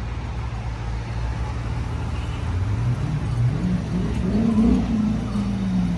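A car engine over a steady low rumble revs up, climbing in pitch from about halfway through, peaks near the end, then eases back slightly.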